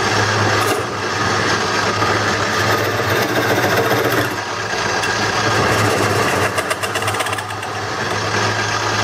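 Craftsman wood lathe running, its motor humming steadily while a turning tool cuts and scrapes the spinning wood blank, the cutting noise swelling and easing as the tool works.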